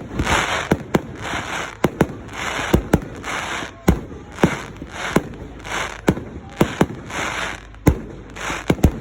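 Fireworks going off in quick succession: sharp bangs at uneven spacing among short hissing bursts that repeat about once a second.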